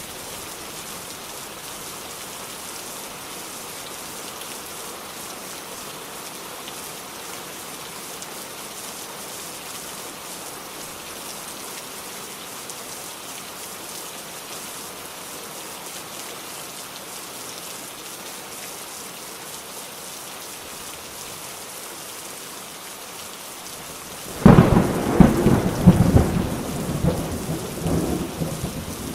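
Steady rain falling, with a sudden loud clap of thunder near the end that rumbles and fades.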